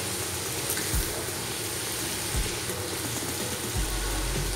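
Rice vermicelli, egg and vegetables sizzling in hot oil in a wok while being stirred and tossed with a spatula, with a few soft knocks.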